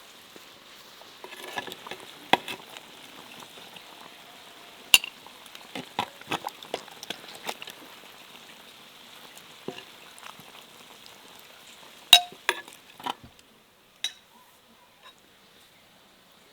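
Sharp clinks and knocks of kitchenware or utensils, scattered irregularly and loudest about five and twelve seconds in, over a faint steady hiss that thins out near the end.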